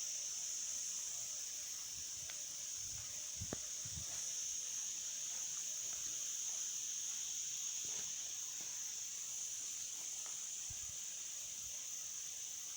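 Steady high-pitched insect chorus, like crickets or cicadas, with a couple of faint low thumps about three and a half seconds in.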